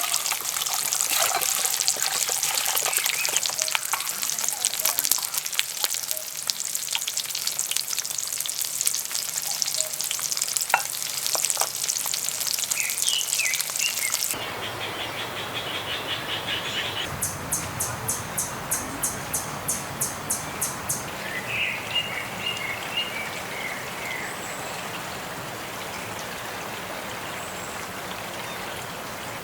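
Food sizzling and crackling on a hot griddle for about fourteen seconds. It then switches abruptly to a steadier outdoor hiss with a rhythmic high chirping and a few bird calls.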